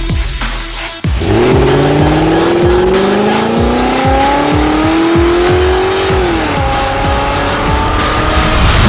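A vehicle engine revving, its pitch climbing steadily for about five seconds and then falling away, over electronic music with a steady beat.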